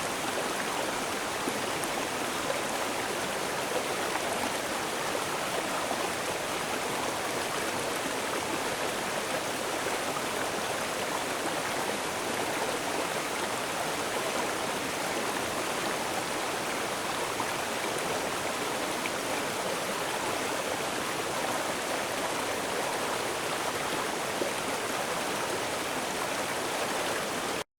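Waterfall: a steady, even rush of falling water that holds unchanged throughout, then stops suddenly at the very end.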